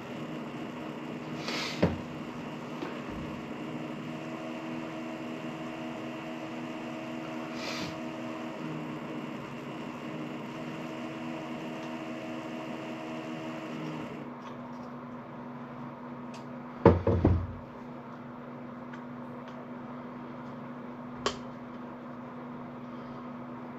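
Float valve parts being handled during disassembly: scattered clicks and knocks, with a short cluster of loud knocks about two-thirds of the way through, over a steady low hum.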